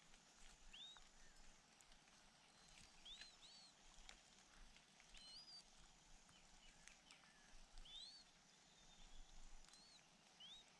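Faint bird chirps: short single notes that each rise quickly and drop back, repeated every second or two and sometimes in quick pairs.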